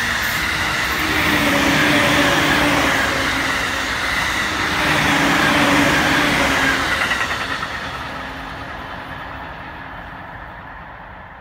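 JR Takasaki Line suburban electric multiple-unit train, two sets coupled, passing close by at speed with a steady rolling rumble of wheels on rail and a faint motor whine. About seven seconds in, the last cars go by and the sound fades away as the train recedes.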